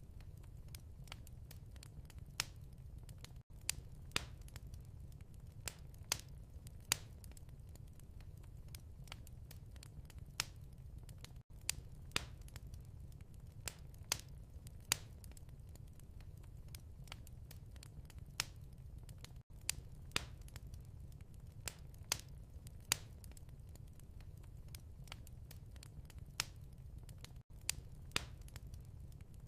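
Crackling wood fire in a fireplace: irregular sharp pops and snaps over a steady low rumble. A very brief dip recurs about every eight seconds, as at the seam of a looped recording.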